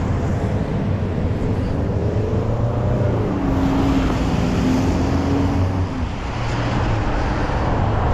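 Steady road-vehicle rumble, with a drawn-out tone that drifts in pitch and then holds for a few seconds midway.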